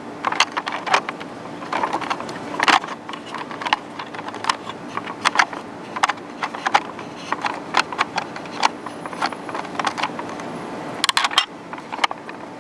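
Irregular small plastic clicks and taps of a Kenner X-Wing toy and a Luke Skywalker action figure being handled as the figure is fitted into the cockpit, with a quick cluster of clicks near the end.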